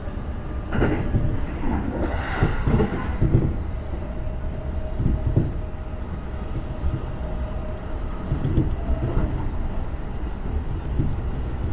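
JR Nambu Line commuter train running at speed, heard from inside the car: a steady rumble of wheels on rails broken by irregular louder clatters. A faint steady whine runs through the middle.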